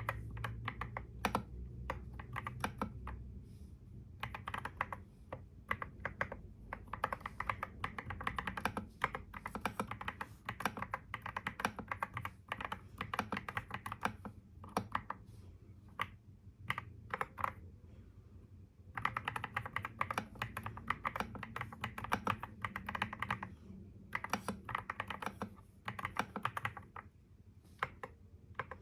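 Typing on a computer keyboard: fast runs of key clicks in bursts of a few seconds, with short pauses between them, over a low steady hum.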